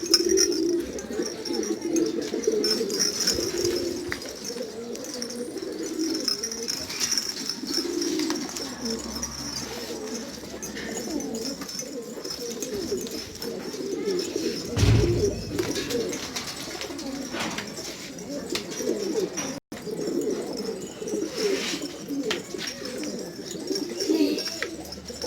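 Many domestic pigeons cooing continuously, their low wavering calls overlapping. A dull thump sounds about fifteen seconds in.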